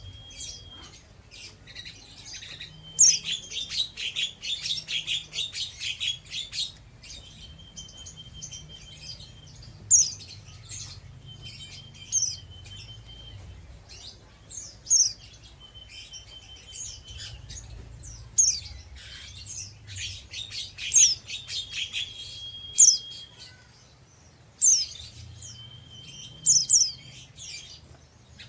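A pleci (white-eye) twittering: sharp, high falling calls every couple of seconds, several of them followed by a short steady whistle, with two stretches of fast chattering twitter. This is the 'ngeriwik' chatter of an untrained young bird.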